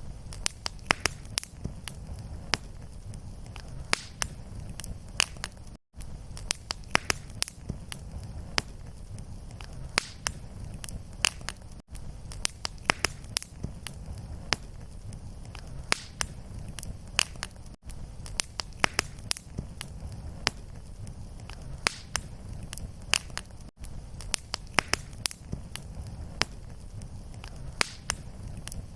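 Fireplace fire crackling, with frequent sharp pops and snaps over a steady low rumble of flame. The sound drops out for a split second about every six seconds, where the loop restarts.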